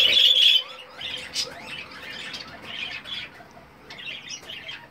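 Budgerigars squawking and chirping: a loud raspy squawk at the start, then scattered quieter chirps.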